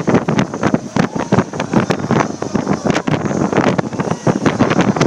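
Strong wind buffeting the microphone in uneven gusts and knocks, over a steady high hiss.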